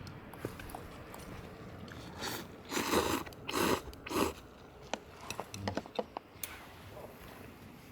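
Someone eating ramen: four quick noisy slurps in a row from a little after two seconds in, followed by small scattered clicks and crackles.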